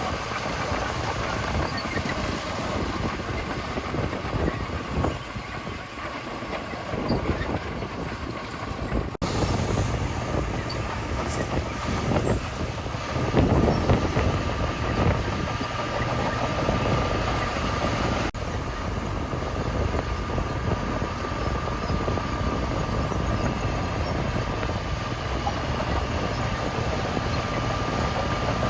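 Heavy diesel earthmoving machinery, a bulldozer and dump trucks, running and working gravel, a steady mechanical noise with a thin steady whine through it.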